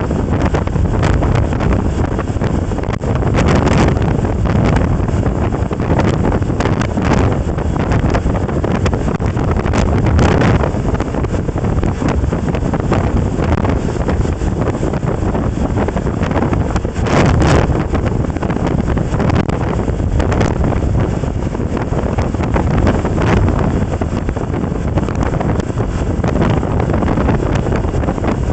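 Loud, steady wind buffeting the microphone of a moving recorder, with a few short stronger gusts.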